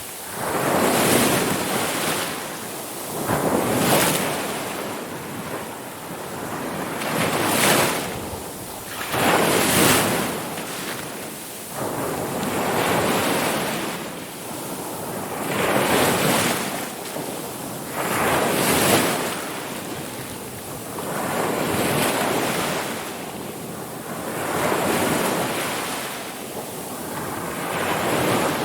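Ocean waves rolling in and breaking on the shore, each surge rising and falling every two to four seconds, with a hiss of wash between them.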